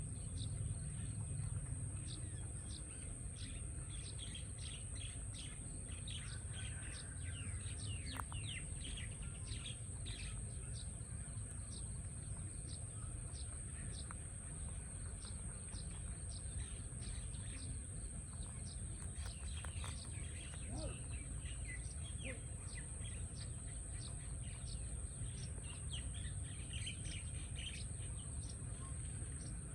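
Many small birds chirping and twittering, short calls coming thick and fast throughout, over a steady high-pitched insect drone and a low rumble.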